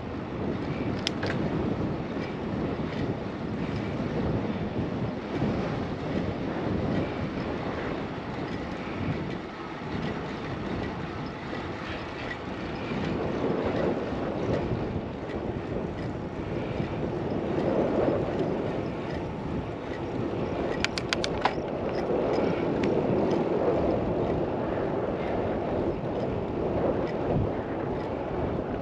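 Wind rushing over the camera microphone of a moving bicycle: a steady, loud rumbling noise that swells and eases. A quick run of sharp clicks about three quarters of the way through.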